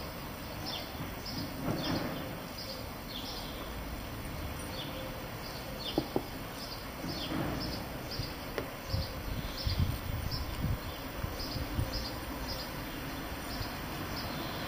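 A small bird chirping over and over: short, high, falling notes about two or three a second. A couple of sharp clicks come about halfway through, then a few dull low thumps.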